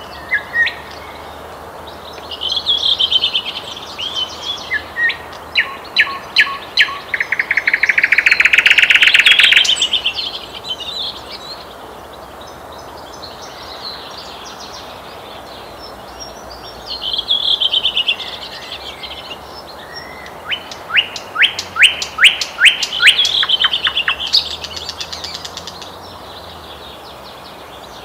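Nightingale singing: two song phrases separated by a pause of several seconds. Each is a run of loud repeated whistled notes, and the first ends in a dense rapid trill.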